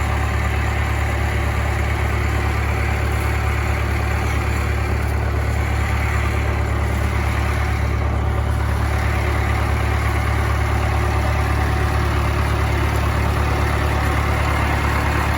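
International Harvester 574 tractor engine running steadily with a low, even hum, its pitch shifting slightly about eleven seconds in.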